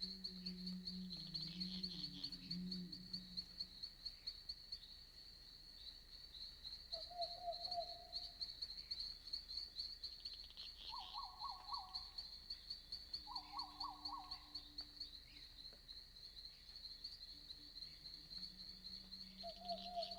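Night-forest insect chorus: a continuous, fast-pulsing high-pitched trill, with four short calls of other night animals scattered through it and a low hum near the start and the end.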